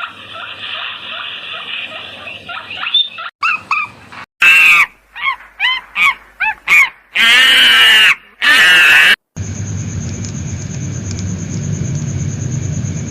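Several animal-sound recordings cut together: first a dense high chirping for about three seconds, then a run of short rising-and-falling calls broken by loud harsh blasts, then a steady low hum with a thin high whine.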